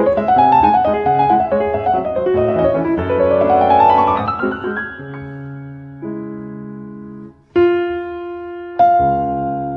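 Background piano music: quick running notes climbing in a rising run about four seconds in, then slower held chords, each struck anew twice near the end.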